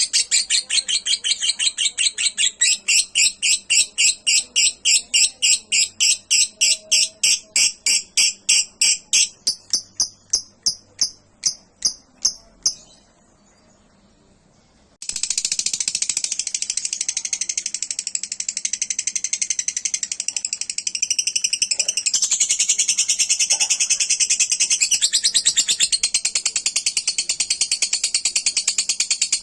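Lovebird singing a long, rapid trill of high chirps that slows and fades out about twelve seconds in. After a two-second pause, a new long unbroken trill starts and runs on.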